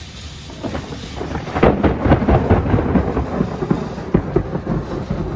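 A thunderclap: a low rumble swells about half a second in into sharp crackling, loudest around two seconds in, then rolls on as a rumble.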